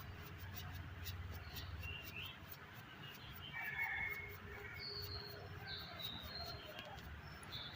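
Birds chirping in short, separate calls over a low steady rumble.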